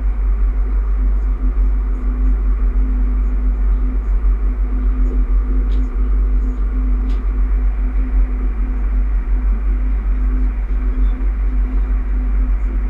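Steady running noise heard inside a Bombardier electric multiple unit travelling at speed: a deep, even rumble of wheels on the track with a steady low hum over it and a few faint ticks.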